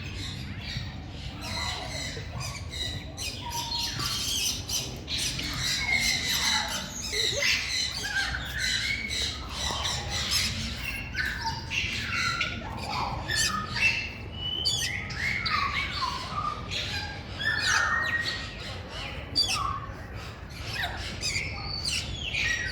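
Many captive birds squawking and calling at once in a dense, overlapping chorus of short harsh calls.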